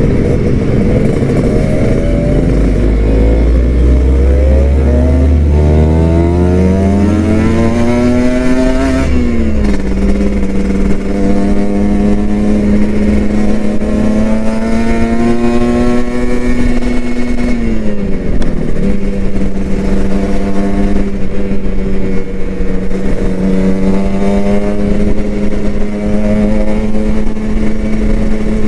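Kawasaki Ninja RR 150's two-stroke single-cylinder engine under way: the revs climb steadily for the first several seconds, drop sharply at a gear change, then hold steady. The pitch dips briefly again about two-thirds of the way through and settles back to a steady run.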